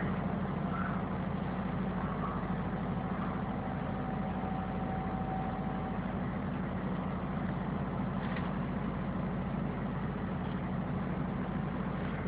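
Steady low mechanical hum, engine-like. About two seconds in, a faint thin tone is heard for roughly four seconds.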